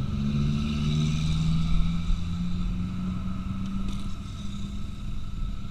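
Trail motorcycle engine running at a steady speed over a low rumble.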